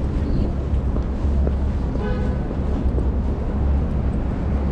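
Busy city street: a steady low rumble of passing traffic with wind buffeting the microphone, and a brief pitched sound about two seconds in.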